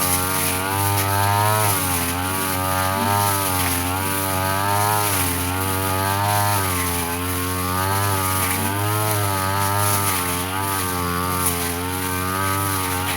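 Brush cutter engine running at high speed with its blade spinning, its pitch dipping and recovering every second or two as the blade bites into the grass and frees again.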